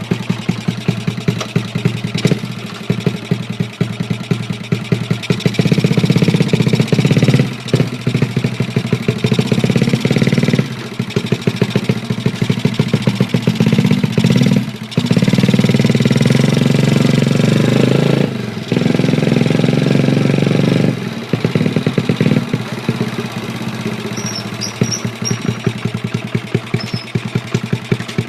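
Honda Chaly minibike's small four-stroke single-cylinder engine running as the bike is ridden. The revs build and the throttle is eased off briefly several times, as at gear changes, then the engine settles back to a lower, quieter run near the end.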